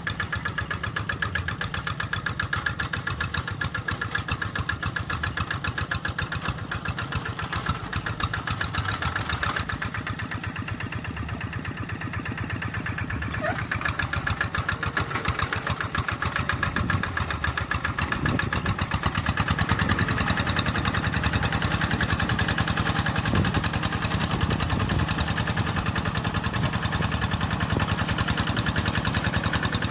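Tractor engine running steadily with a rapid, even beat, getting louder about two-thirds of the way through.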